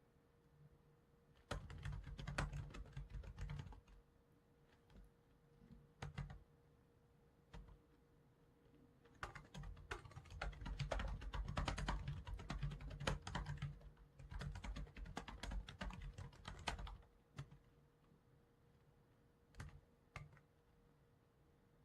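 Typing on a computer keyboard in several fast runs of keystrokes with short pauses between them, then a few single clicks near the end.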